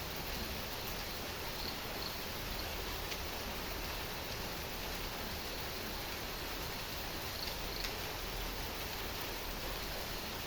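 Heavy rain falling steadily, an even hiss with no breaks. A few faint short high chirps sound over it about two seconds in and again near eight seconds in.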